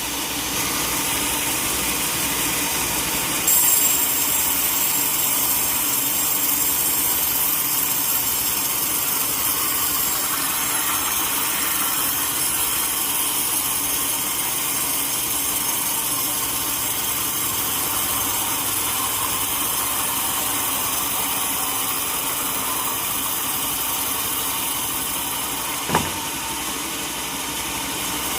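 Sawmill machinery running steadily, an engine-driven saw with a brighter hiss coming in about three and a half seconds in. A single sharp knock near the end.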